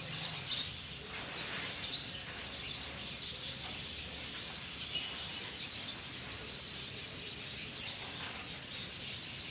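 Pet finches giving faint, scattered short chirps over a steady background hiss.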